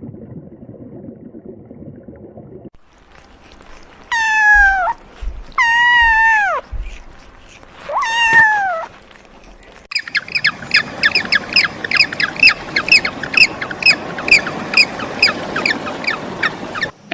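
Animal calls: three drawn-out cries that fall in pitch, then, after a pause, a fast run of short high calls, about three a second.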